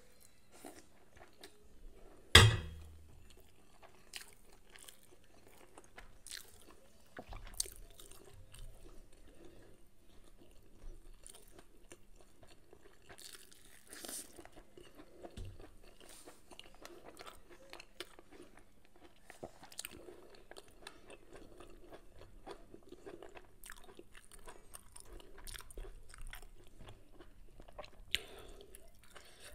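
Close-up chewing of a mouthful of rice and fried short mackerel, with small crunches and clicks coming on and off. A single sharp knock about two seconds in is the loudest sound.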